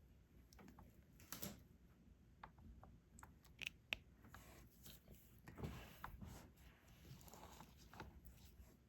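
Faint scattered clicks and taps of a diamond-painting drill pen and small resin drills being picked up and pressed onto the adhesive canvas, with two sharper clicks about four seconds in and soft rustling of handling in the middle.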